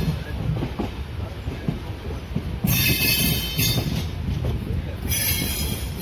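Passenger train running slowly, its wheels rumbling and knocking over the rail joints, with high-pitched wheel squeal twice: for about a second from two and a half seconds in, and again near the end.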